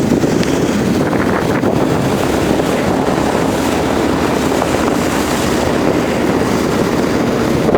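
Steady wind buffeting the microphone over a motorboat running on the water, with water noise beneath.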